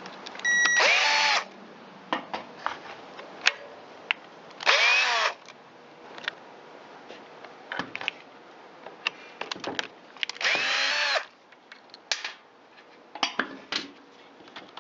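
Cordless electric screwdriver running in three short bursts of about a second each, its motor whirring up and slowing down, backing out T27 Torx screws. Small clicks and knocks sound between the bursts.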